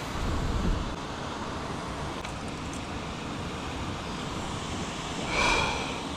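Steady rushing outdoor noise of wind and moving water, with a short high-pitched call or squeak about five and a half seconds in.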